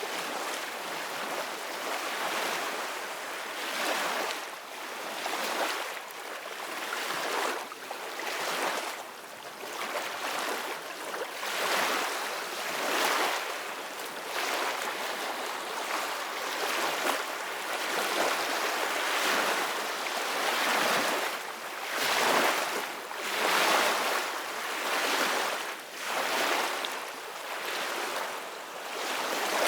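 Sea waves splashing and washing without a break, the rush swelling and easing every couple of seconds.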